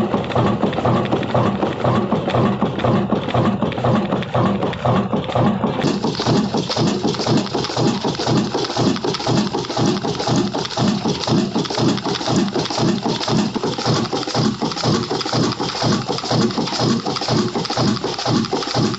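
Old single-cylinder black diesel engine running steadily, its firing giving an even, rhythmic beat.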